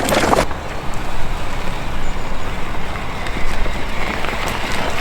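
Wind buffeting a chest-mounted action camera and tyre rumble as an electric mountain bike is ridden along a dirt track.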